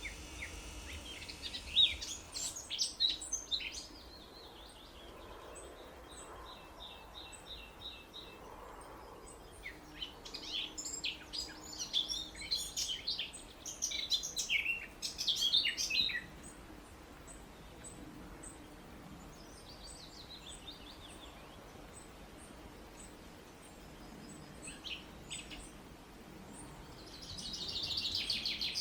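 Songbirds singing in bursts of high chirps and trills: a short run of rapidly repeated notes early on, a longer jumble of chirps and trills in the middle, scattered single calls after, and a brief buzzy rasp near the end.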